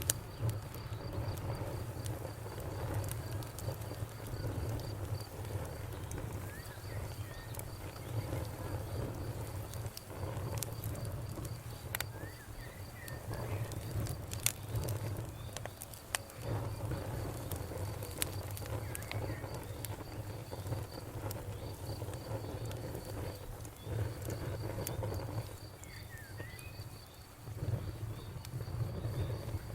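Campfire crackling, with scattered sharp pops over a low rumble that swells and dips. A cricket chirps steadily in the background.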